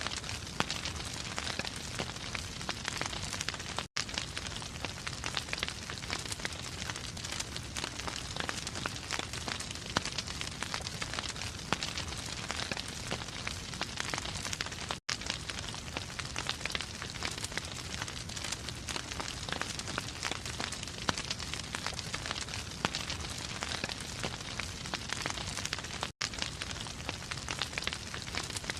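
Wood fire in a fireplace crackling steadily, with a constant hiss and many sharp pops. The sound cuts out for an instant three times, about every eleven seconds.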